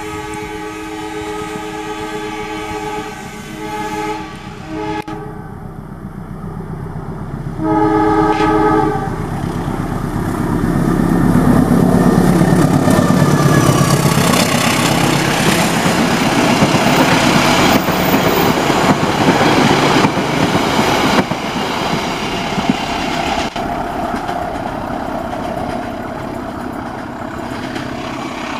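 A diesel-electric locomotive's multi-tone horn sounds in several blasts as the passenger train approaches, with one more blast about eight seconds in. The locomotive's engine then passes close, loudest around twelve seconds in, and the coaches roll by with clickety-clack over the rail joints, fading as the train moves away.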